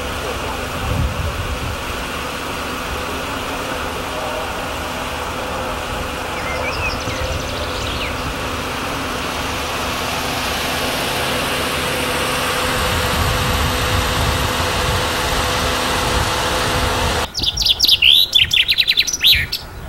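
A steady rushing background with a faint low hum and one brief faint chirp. About three seconds before the end, a hard cut brings a small songbird singing close by: a loud, fast run of high chirps and short falling notes.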